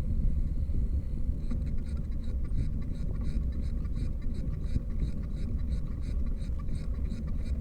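Wind rumbling on the microphone with road noise while riding a bicycle. From about a second and a half in, a light, regular ticking runs through it, about four ticks a second.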